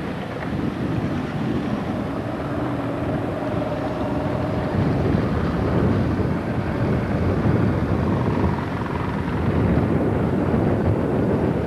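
Steady rumble of a boat under way, its engine running under a rush of wind and water noise.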